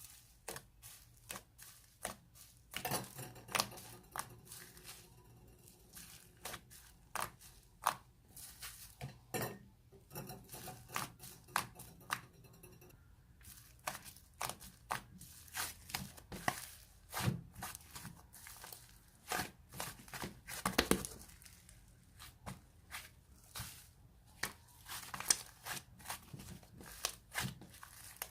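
White fluffy clay slime being pressed, folded and stretched by hand, making irregular sticky clicks and crackles, several a second.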